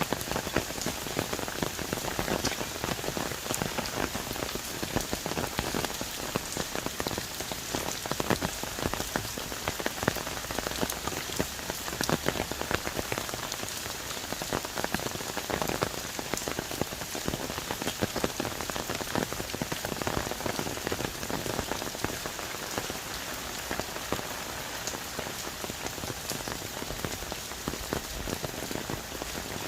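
Heavy rain falling on rainforest trees, a dense steady hiss with many sharp drop ticks throughout.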